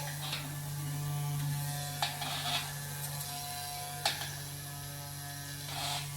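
Small DC motor of a toy boat running with a steady buzz, with a few light clicks and knocks over it.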